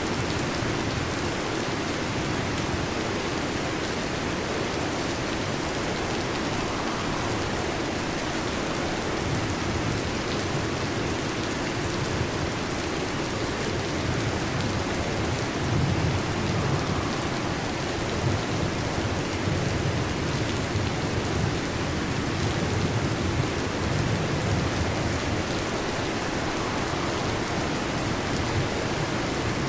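Heavy rain falling steadily on a metal roof, with a low rumble of thunder about halfway through.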